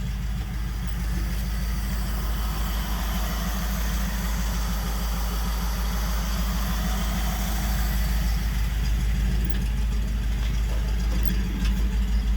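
1958 Dodge W200 Power Wagon's V8 engine idling steadily, with a rhythmic pulse that grows louder and more uneven near the end.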